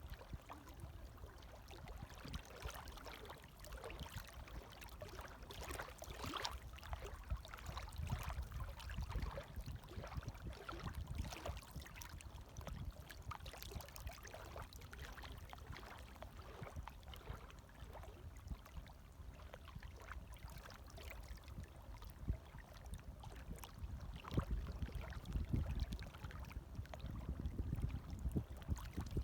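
Light waves lapping and splashing at the water's edge: a continuous low wash full of small splashes, growing a little stronger near the end.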